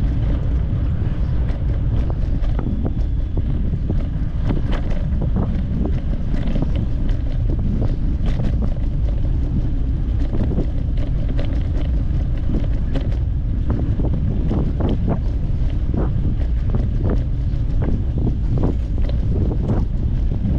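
Wind buffeting the microphone while riding, a steady low rumble, with many small sharp clicks and rattles scattered through it.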